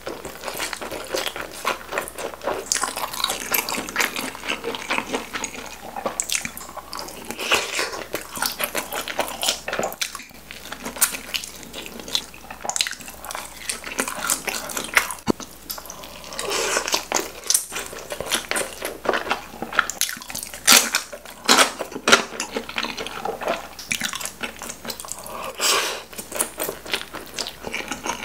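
Close-miked wet chewing and lip smacking on a mouthful of dumplings: a steady run of small clicks and squelches.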